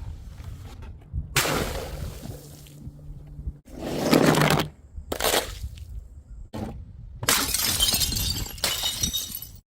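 Glass bottles smashing: several separate crashes one after another, the last one longer, with a spread of breaking glass lasting about two seconds.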